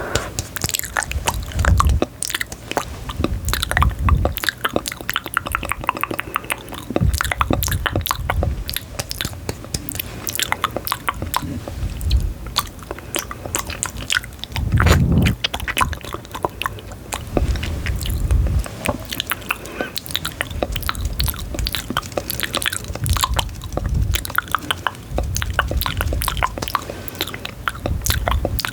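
Close-miked chewing and biting, with dense small crackling clicks and soft low thumps every couple of seconds.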